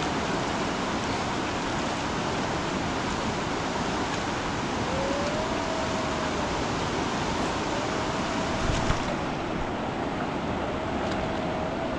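Steady, loud rush of storm water and wind. A faint wavering tone rises and falls three times over it, and a single sharp knock comes about nine seconds in.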